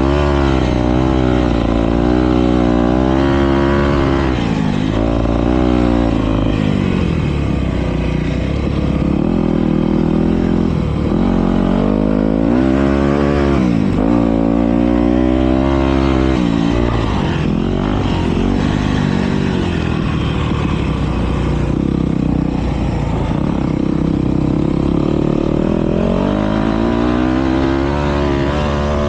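Motocross bike engines racing, revving up and falling back again and again as the riders work the throttle and shift.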